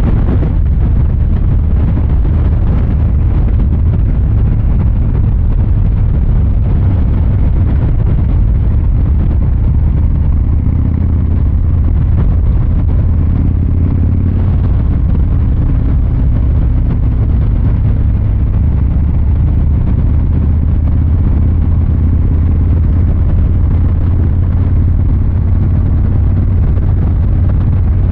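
2023 Harley-Davidson Fat Boy 114's Milwaukee-Eight V-twin engine and exhaust running steadily, with its sound lying low and no sharp changes in revs.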